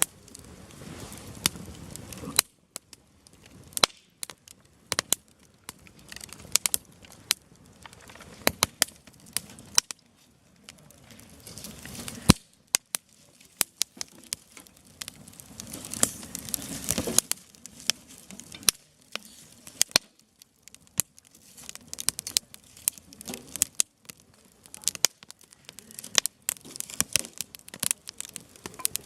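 Campfire of burning firewood crackling, with many sharp, irregular pops of the wood snapping. Stretches of a soft rushing hiss rise and fall several times.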